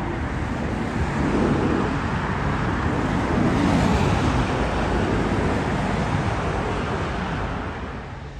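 Jet airliner passing overhead: a broad engine roar that swells to its peak about four seconds in, with a faint high whine rising and falling over it, then fades near the end.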